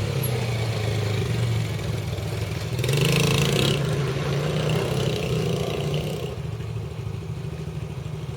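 Dirt bike engine running as the bike approaches, getting loudest about three seconds in, then fading after about six seconds as it rides away.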